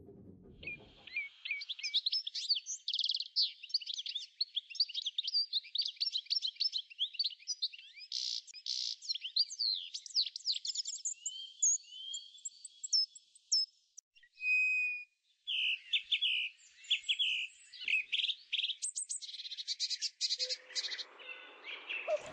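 Several birds chirping and singing at once: quick overlapping chirps, trills and fast whistled sweeps, with a short thinner stretch about two thirds of the way through.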